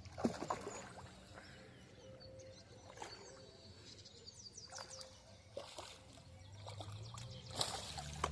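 Outdoor ambience with a bird chirping, a quick run of short falling notes around the middle, among scattered small clicks and knocks. A low hum comes back near the end.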